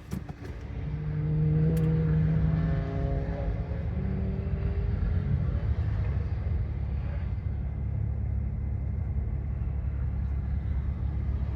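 Car engine running, with a clear engine note for the first few seconds that then settles into a steady low rumble.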